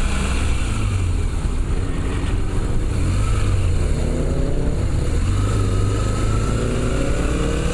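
Motorcycle engine running on the road, heard through a helmet-mounted microphone with steady wind rush. The engine pitch rises gradually in the second half as the bike picks up speed.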